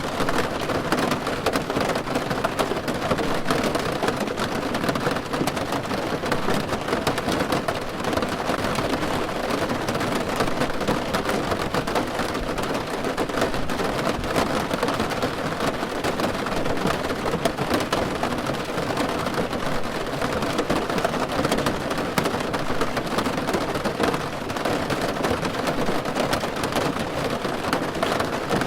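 Steady rain drumming on a car roof, a dense patter of drops.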